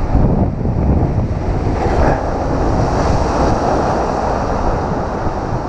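Heavy surf breaking and washing over shoreline rocks, a continuous roar of churning water that swells about two seconds in, with wind buffeting the microphone.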